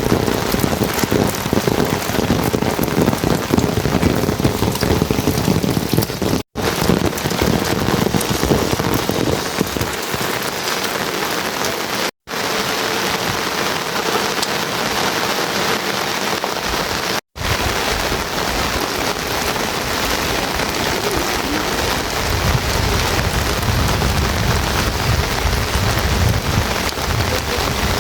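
Heavy rain falling steadily, an even hiss of many drops, cut by three brief drops to silence. A deep low rumble runs under the rain for the last several seconds.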